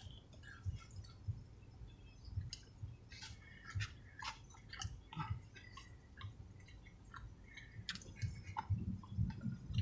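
A person chewing food with open-mouthed wet smacks and small clicks in an irregular rhythm, picked up close to the microphone.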